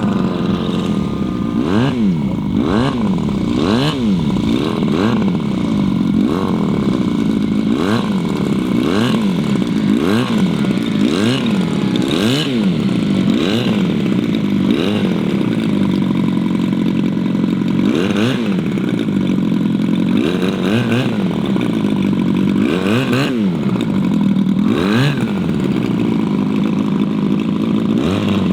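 Large radio-control model airplane engine running, its pitch rising and falling over and over, about once a second.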